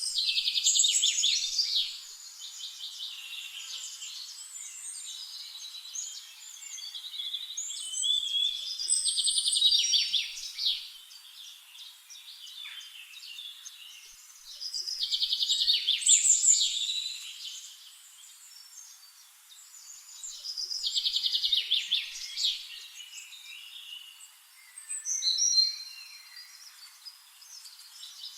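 Small birds chirping and chattering, in loud bursts of fast, buzzy, twittering calls every five or six seconds, with softer chirps in between.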